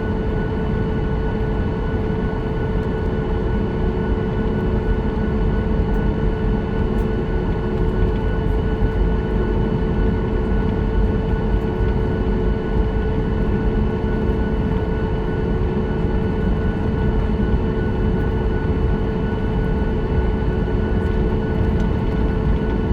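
Steady cabin noise inside a Boeing 737-9 MAX on the ground after landing: a low rumble with a few steady hum tones over it.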